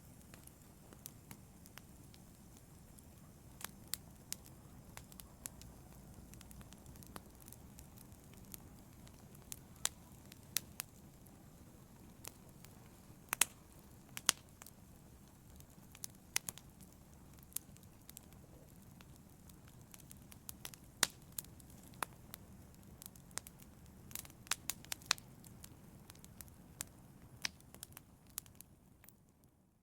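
Wood fire in a fireplace crackling: irregular sharp pops over a low, steady rush of flames, fading out at the very end.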